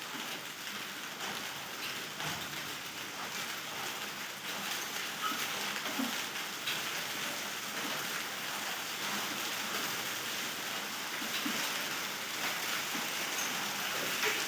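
Steady rain falling, a continuous hiss with scattered individual drops tapping on a surface.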